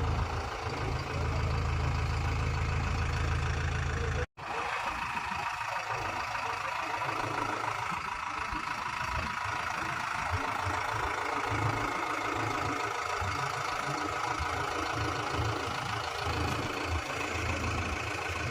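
Heavy diesel engine running, with a sudden break about four seconds in where the recording cuts, followed by a rougher, more uneven engine sound.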